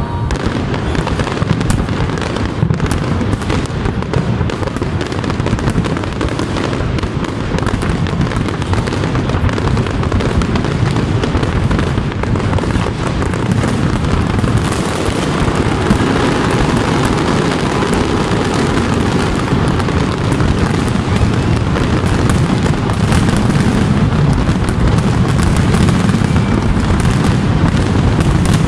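Dense, continuous barrage of aerial firework shells bursting: many overlapping booms and crackles run together into an unbroken rumble that grows slightly louder in the second half.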